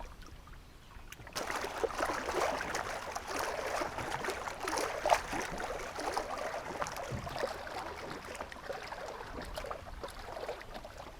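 Water sloshing and splashing, starting about a second in and going on steadily with many small crackly splashes.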